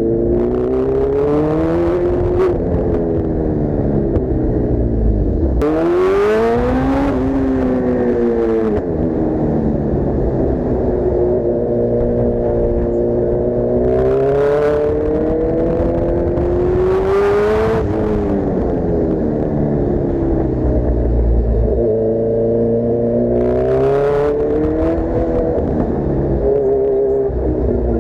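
Kawasaki Z1000's inline-four engine through an Arrow full-system exhaust, accelerating and easing off while riding. Its pitch rises and falls about five times, with the hardest pulls near the quarter and three-quarter marks, and it is loud throughout.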